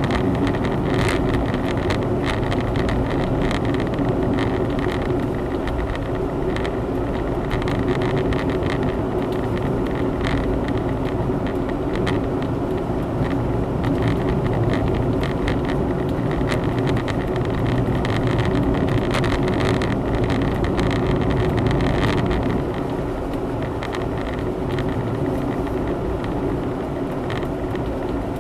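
Honda Zest 4WD kei car on the move: steady engine and road noise heard from inside the cabin, with scattered light clicks and rattles. It gets a little quieter for the last few seconds.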